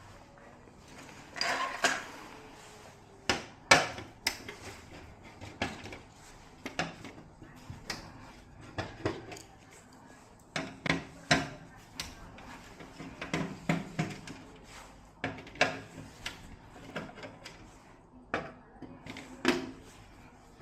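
Hard objects being handled at close range: irregular clicks, taps and light clatters, several every few seconds, with a longer scraping or rustling patch about two seconds in.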